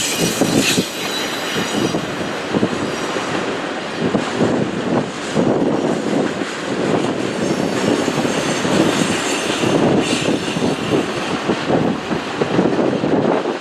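Freight train of intermodal cars rolling past close by: steady wheel rumble and clatter on the rails, with faint high wheel squeal near the start.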